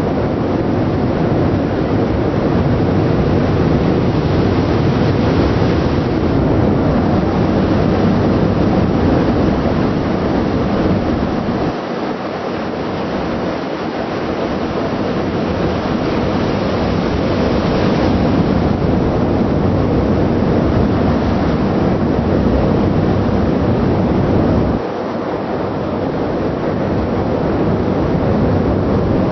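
Steady noise on a ship's deck: a low rumble from the ship's engine and exhaust vent, mixed with wind rushing over the microphone and the sea. The low rumble thins out briefly twice.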